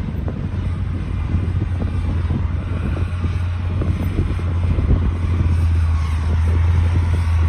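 D60 crawler bulldozer's diesel engine running steadily under load, with irregular clattering and cracking over the engine drone, growing slightly louder toward the end.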